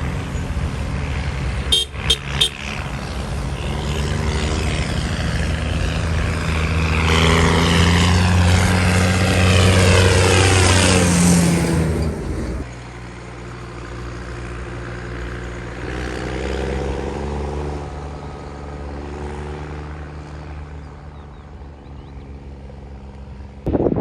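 Vintage tractor engines running as tractors drive past, with a few short horn toots about two seconds in. One tractor passes close, getting louder and then dropping in pitch as it goes by at about the middle, and after that the engines are quieter.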